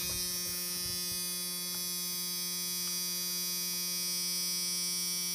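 A steady electrical hum with a fixed pitch and no change in level; the truck's engine is not running.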